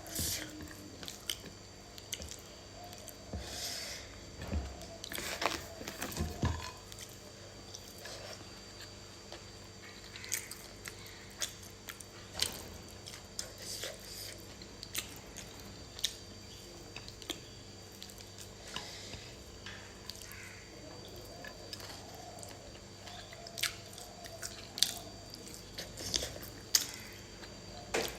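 Close-miked chewing and mouth sounds of a person eating fried pork liver: irregular wet smacks and clicks, some louder bites around five to seven seconds in and again near the end.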